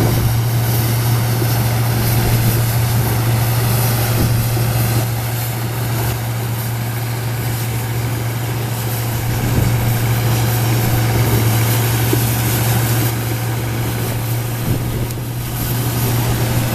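1977 Gleaner F2 combine running steadily while harvesting corn, its engine and threshing machinery making a loud, even drone with a strong low hum.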